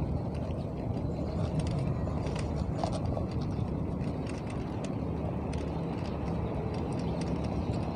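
Steady low rumble of road and wind noise heard while riding a bicycle, with a few faint light clicks.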